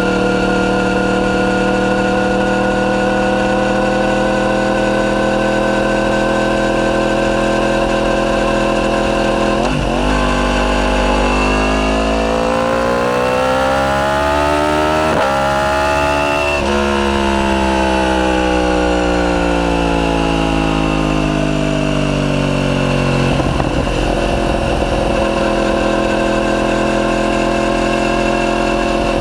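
Yamaha YZF-R1's crossplane inline-four through an Akrapovic full titanium exhaust with the catalyst removed, under way at a steady engine speed. About ten seconds in, the revs climb for around six seconds, then fall away gradually over about seven seconds and settle back to a steady note.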